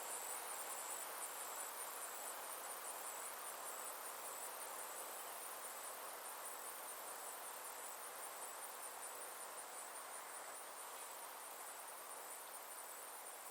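Summer insects chirring steadily: a high-pitched, evenly pulsed trill over a soft hiss of outdoor ambience that slowly eases off.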